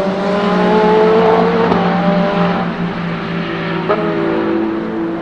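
BMW M Hybrid V8 prototype's twin-turbo V8 accelerating hard, with two upshifts about two seconds apart, each dropping the engine pitch, and fading as the car pulls away.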